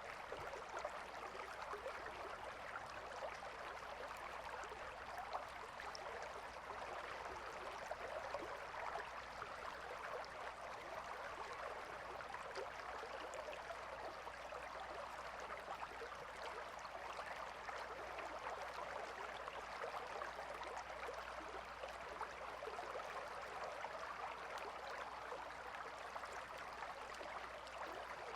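A calm river flowing steadily, a continuous even rush and burble of water.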